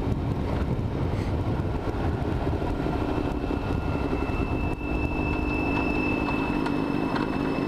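Motorcycle engine running at a steady, even note, with no revving.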